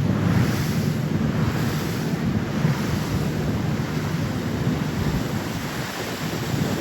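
Steady wind buffeting the microphone with a rush of water and a low rumble, as heard from a moving boat.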